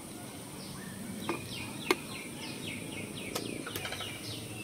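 A bird calling a quick run of short, falling chirps over and over, with a few sharp clicks and a steady low hum beneath.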